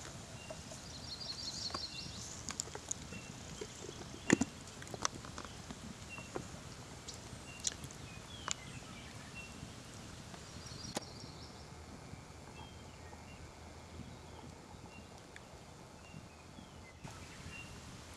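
Outdoor background with scattered sharp clicks and snaps, the loudest about four seconds in, and a small bird giving a quick high trill twice, once near the start and once about halfway through.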